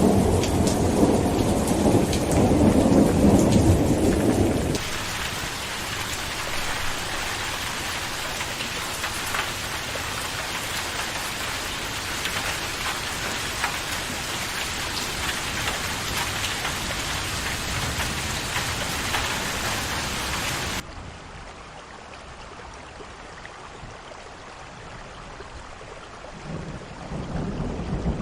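Rain falling steadily with rolling thunder. A loud rumble of thunder over the first few seconds stops abruptly, leaving an even rain hiss. About 21 seconds in the rain switches suddenly to a quieter, duller sound, and thunder rumbles again near the end.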